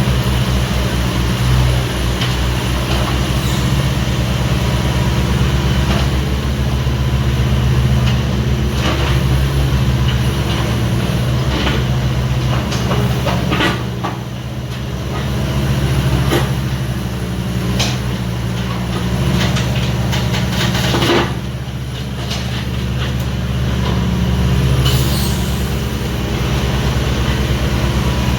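Hitachi 26U mini excavator's diesel engine running steadily, with scattered metallic clanks and knocks from the machine at work, the strongest about three-quarters of the way through.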